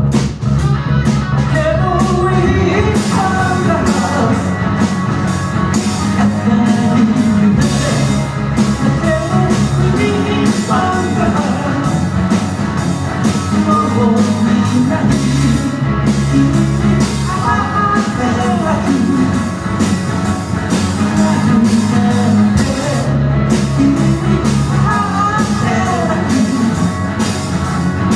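Live rock band playing a song: drum kit, bass and guitar, with a melody line wandering over a steady low beat.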